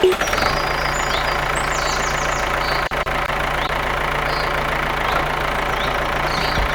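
A motor or engine running steadily: an even low hum with a rough, noisy rattle over it, briefly dropping out about three seconds in.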